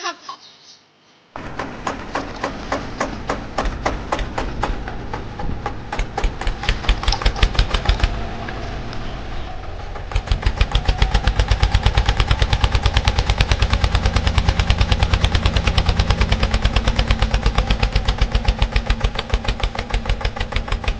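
Tractor engine running with a rapid, even knocking beat over a low hum, starting suddenly about a second in and becoming louder and quicker about halfway through.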